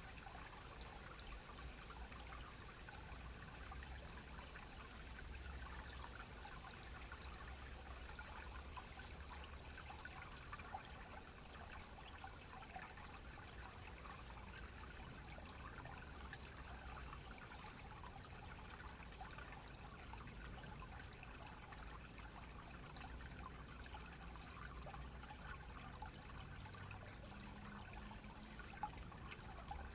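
Clear stream water trickling and gurgling steadily, faint, with a low rumble underneath.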